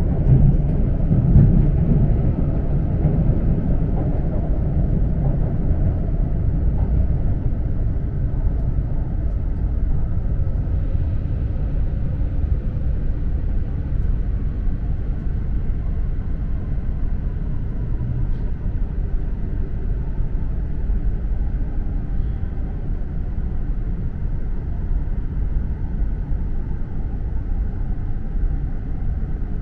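Steady low rumble inside the lower-deck cabin of an E4 series Max double-decker Shinkansen as the train runs along the line, a little louder in the first couple of seconds.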